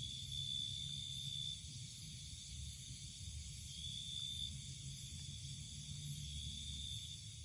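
Night insect chorus: a steady, dense high-pitched buzzing of crickets or similar insects, with one shrill note swelling louder three times, over a low rumble.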